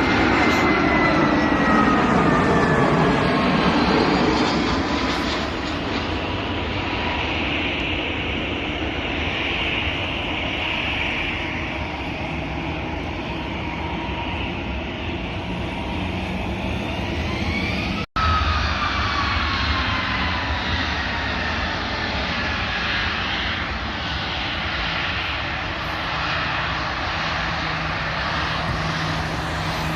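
Jet airliner passing close, its turbine whine falling in pitch as it goes by, loudest in the first few seconds, then the engine noise carrying on steadily. A little past the middle the sound cuts out for an instant, and a second falling whine follows.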